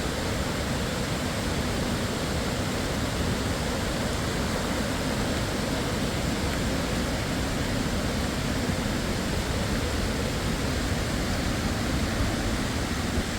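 Waterfall: falling water rushing, a loud, steady, unbroken noise.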